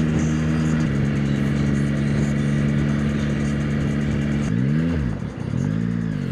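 Yamaha R9's inline-three engine running at a steady cruising speed under wind noise, then two quick revs near the end, each rising and falling in pitch, before it settles to a lower, steady note.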